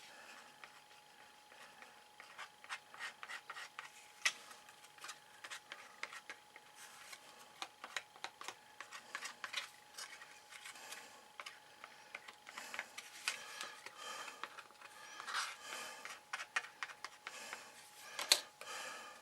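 Glued card being rubbed and pressed down by hand, making irregular scraping and rubbing with small clicks and taps. The sharpest clicks come about four seconds in and near the end.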